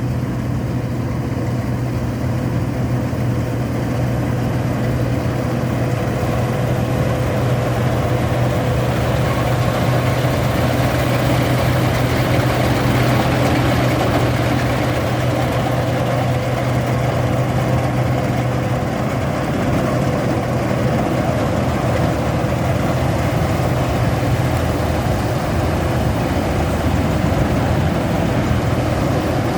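INARI rice combine harvester's engine running steadily, a constant low hum with machinery noise over it.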